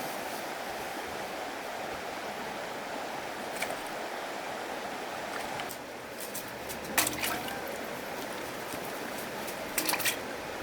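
Steady rushing of water, with a few short sharp clicks or knocks: one about three and a half seconds in, a louder cluster about seven seconds in, and another near the end.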